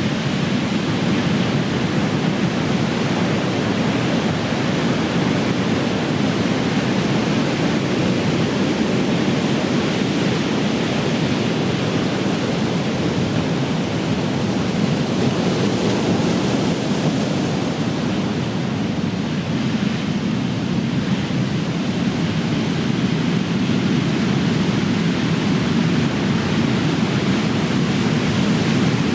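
Big ocean waves crashing and washing on the shore in a continuous low surf roar, swelling and easing slightly without clear separate breaks.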